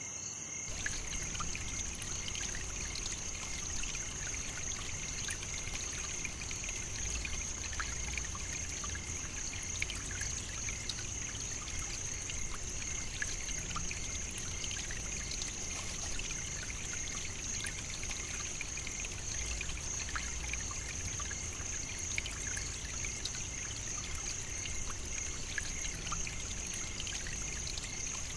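Nature ambience: insects keeping up a steady, high-pitched trill, over a trickle of running water and a faint low rumble.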